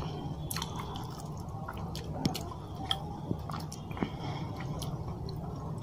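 Close-up chewing and wet mouth smacking of someone eating rice and fish curry, with scattered sharp clicks and pops. Squelching of a hand mixing the rice with gravy on the plate, over a steady low hum.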